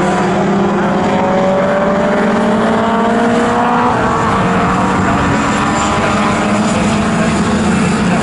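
Several historic pre-1966 touring car engines running hard together, their notes slowly rising as the cars accelerate.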